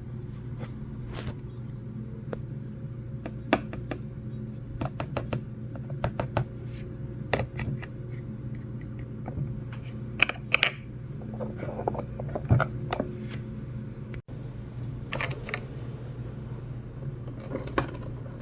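Small plastic toy pieces being handled, giving irregular light clicks and taps, a few sharper ones about ten and twelve seconds in, over a steady low hum.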